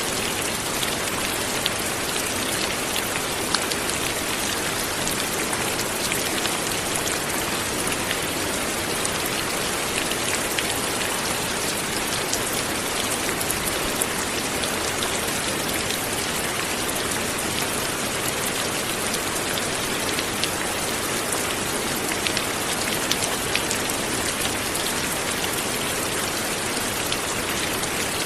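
Light rain falling steadily, an even hiss with many small drops pattering.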